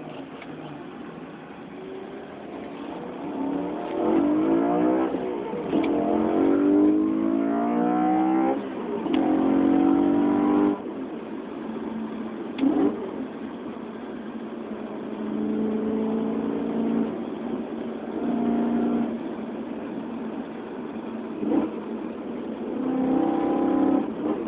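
BMW E90 M3's 4.0-litre V8 through an RPI off-road exhaust with the stock muffler, heard from inside the cabin while accelerating hard through the gears. The engine note climbs in pitch three times between about four and eleven seconds in, dropping at each upshift, then settles into steadier cruising.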